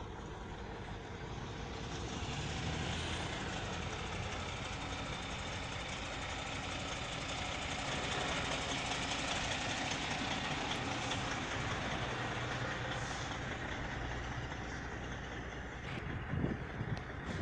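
Heavy vehicle engine running steadily under way, swelling about two seconds in and holding at that level.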